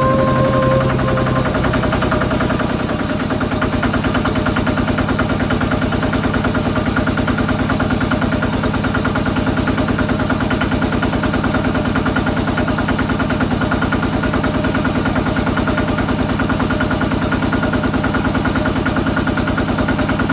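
Small single-cylinder engine of a homemade mini tractor running steadily, a fast even chatter of firing pulses.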